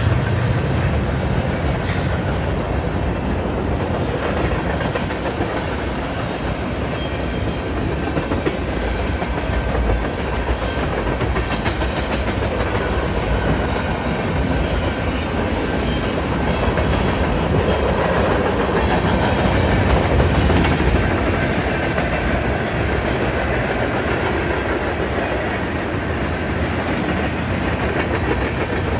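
Union Pacific freight train's cars rolling steadily past on the rails.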